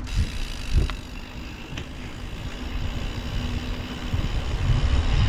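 Wind rushing over the microphone and tyre rumble as a mountain bike picks up speed downhill, growing louder toward the end. Two sharp clicks come in the first two seconds.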